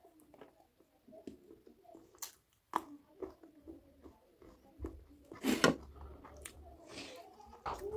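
Close-miked chewing and wet mouth sounds of someone eating chicken curry and rice by hand. Scattered soft clicks run through it, with a louder one about five and a half seconds in.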